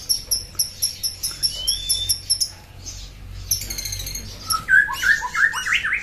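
Small wild birds freshly caught by a bird trapper chirping in a fast, even run of short high notes, about four a second, which stops about two and a half seconds in. After a brief gap another burst of chirps follows, then a cluster of lower, rising squeaky calls near the end.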